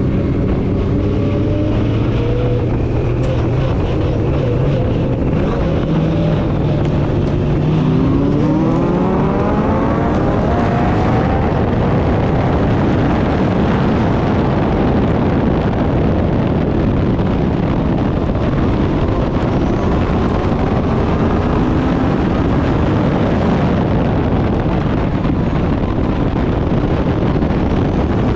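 Turbocharged Backdraft Cobra racing car's engine running loudly at steady revs. About eight seconds in, its pitch climbs steeply as it accelerates hard, and it stays at high, busy racing revs from then on.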